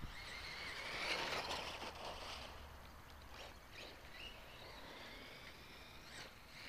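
Electric motor of an RC stadium truck whining, its pitch rising and falling as the truck speeds up and slows, loudest a second or two in, with a few faint clicks.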